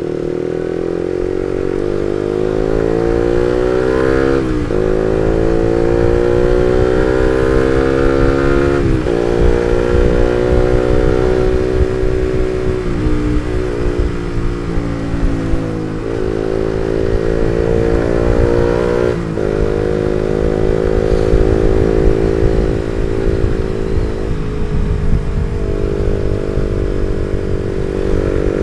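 Suzuki GSX-R150's single-cylinder four-stroke engine running through an R9 Misano aftermarket exhaust while the motorcycle is ridden. The pitch climbs under throttle, then drops sharply about five times as the rider shifts gears or eases off, and it settles into steadier cruising in the second half.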